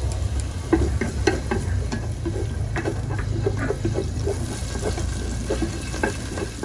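Chopped garlic, shallots and ginger sizzling in hot oil in an aluminium pot, with many short pops and ticks, while a wooden utensil stirs and knocks against the pot. A steady low hum runs underneath.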